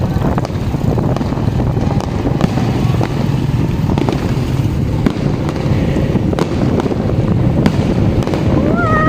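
Fireworks going off in rapid succession: dense, continuous crackling with many sharp bangs.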